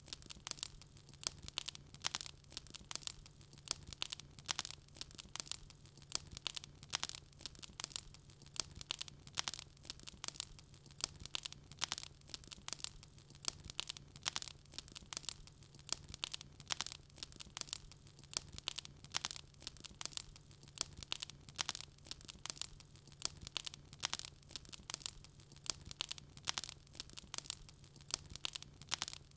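Wood fire crackling in a fireplace: a dense run of quick, sharp crackles and pops with no letup, over a faint steady low hum.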